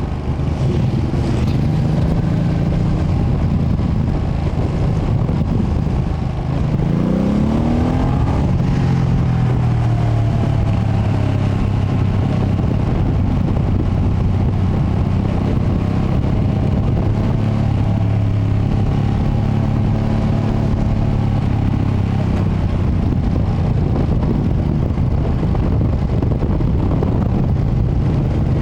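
2025 Ducati Panigale V2S's V-twin on the stock exhaust, running under way over a dense rush of wind and road noise. About seven seconds in the engine revs up in a quick rising sweep, then settles to a steady cruise, with a smaller rise in pitch a few seconds before the halfway point.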